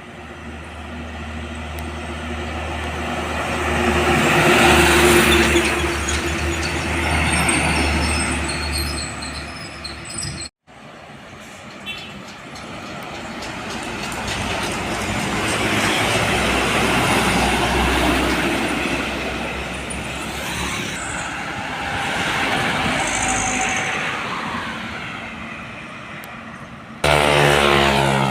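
Heavy trucks driving past one after another, each swelling in loudness as it approaches and fading as it goes by. Near the end a louder, steady engine note starts suddenly.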